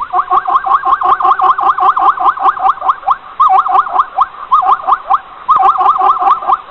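An animal call: a rapid series of short pitched chirps, about five a second, in runs broken by brief pauses.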